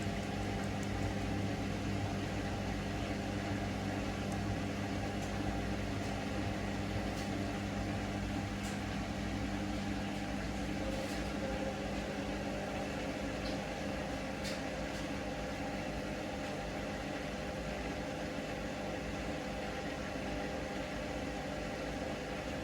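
Hoover Link washing machine in its final spin, the drum turning at speed with a steady motor hum that eases slightly in level, and a few faint clicks.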